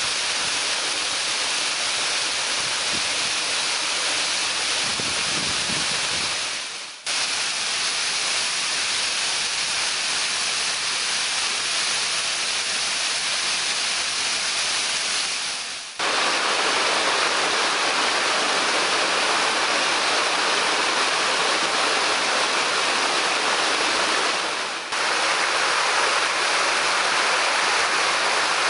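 Waterfall's steady rushing roar of falling water. It dips and cuts off briefly three times, and is a little louder after the second break.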